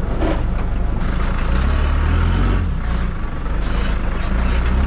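A vehicle engine running steadily with a low rumble, a little louder for about a second near the middle.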